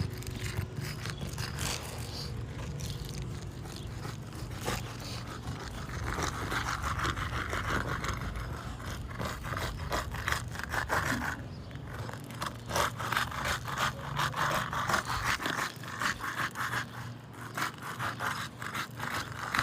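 Roofing snake scraping and rasping under asphalt shingles as they are pried loose, in long runs of quick repeated strokes, with a steady low hum beneath.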